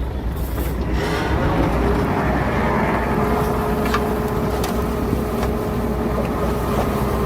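Heavy diesel earthmoving machinery running steadily, a dense low engine rumble with a few sharp clanks and a faint steady whine that sets in partway through.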